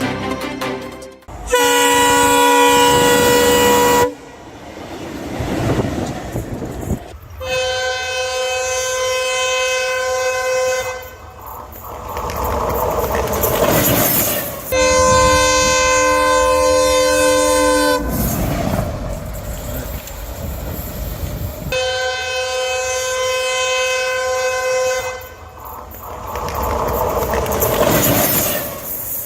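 Railway locomotive sounding its horn in four long blasts as it runs through at speed, with the rush and rumble of the engine and wheels on the track between blasts.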